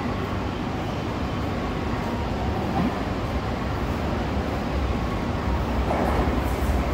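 A train running with a steady rumble that grows louder near the end, as it draws closer.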